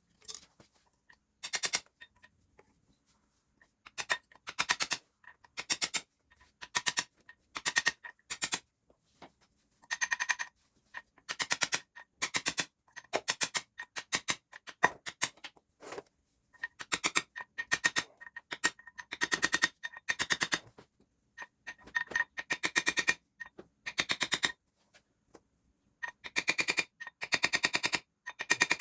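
A wrench turning bolts in short bursts of rapid clicking, about thirty bursts of half a second to a second each, with brief pauses between them.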